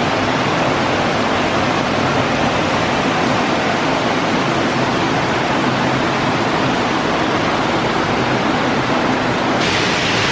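Waterfall rushing, loud and steady.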